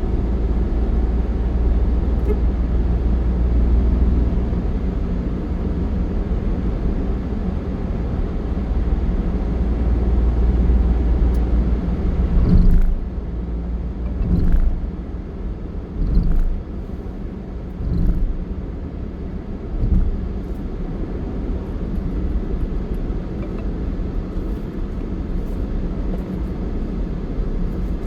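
Steady low rumble of a motor vehicle on the road. Near the middle come five short louder swells, about two seconds apart.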